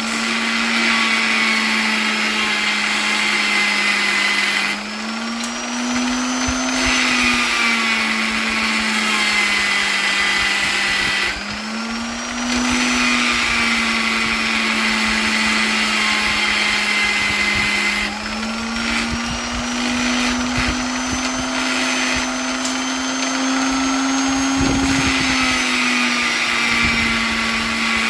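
Electric polisher motor running continuously with a steady hum and a higher whine. Its pitch shifts up three times: briefly about five seconds in, again around eleven seconds, and for a longer stretch in the second half.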